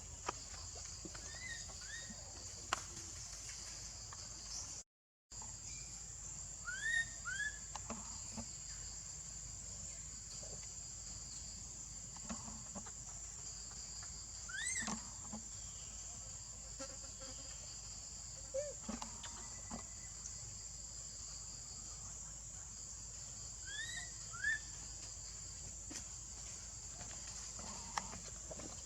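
Steady, high-pitched drone of insects, with a few short rising-and-falling chirping calls from an animal, mostly in pairs, about a second, seven, fifteen and twenty-four seconds in. The sound cuts out completely for a moment about five seconds in.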